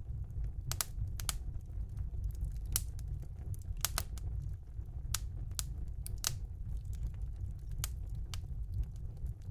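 Wood fire burning in a fireplace: sharp irregular crackles and pops from the burning logs, about a dozen scattered through, over a steady low rumble of the flames.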